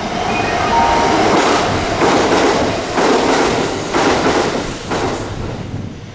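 Kintetsu electric train passing along the station tracks. Its wheels and cars make a loud rushing clatter that surges about once a second, then fades near the end.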